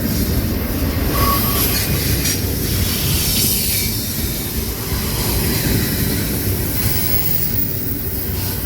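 A train rolling past, a steady rumble of wheels and cars on the rails with a hiss high above it.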